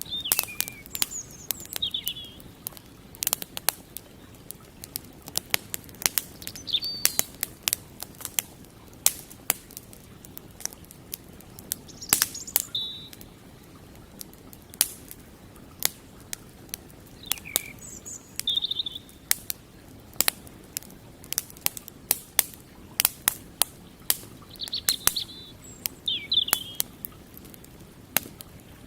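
Wood campfire crackling with frequent sharp pops, while small birds chirp every few seconds in short falling calls.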